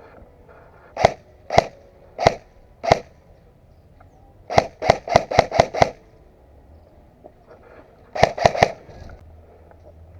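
Airsoft gun firing: four single shots roughly half a second apart, then a quick string of six, then three more in fast succession near the end.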